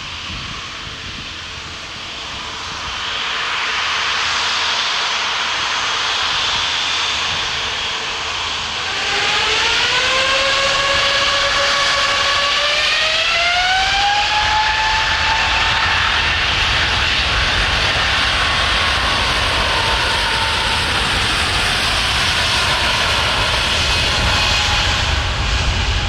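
Airbus A350's Rolls-Royce Trent XWB jet engines running. About nine seconds in, a whine rises in steps over several seconds as thrust comes up, then holds steady over the engine noise, and a low rumble grows near the end.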